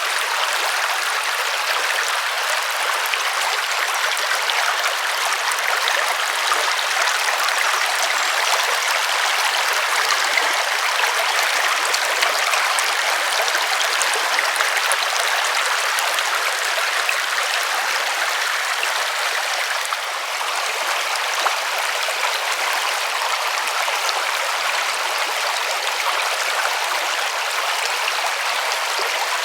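A river rushing and splashing in a steady, even stream of water noise.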